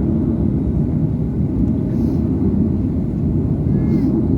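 Steady low rumble of an airliner's jet engines and airflow during its takeoff run.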